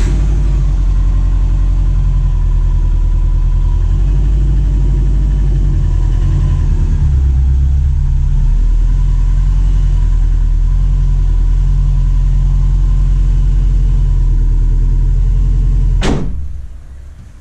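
2004 Subaru Forester XT's engine, freshly built and just past its 200-mile break-in, running steadily with a low exhaust rumble. It cuts off sharply about sixteen seconds in.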